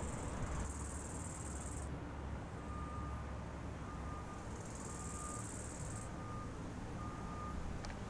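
Two bursts of high insect buzzing over a steady low rumble of distant harvest machinery. A faint reversing beeper starts a few seconds in, beeping about once a second.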